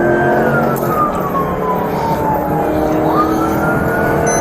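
Siren wailing over vehicle engine noise, its pitch falling slowly, then rising quickly again about three seconds in.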